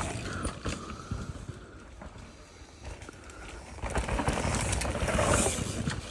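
Electric mountain bike riding on a trail: wind on the microphone and the rumble of tyres and bike, getting louder about four seconds in.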